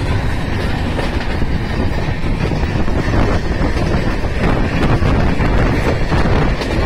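Passenger train running along the track, heard from the carriage window: a loud, steady rumble and rattle of wheels on rails.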